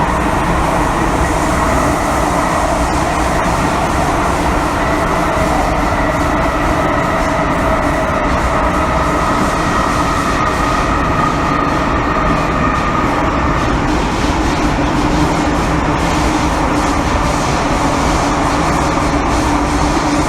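MTR Kwun Tong Line M-Train heard from inside the passenger car while running between stations: steady wheel and rail rumble with several held whining tones from the drive, one of which fades about two-thirds of the way through.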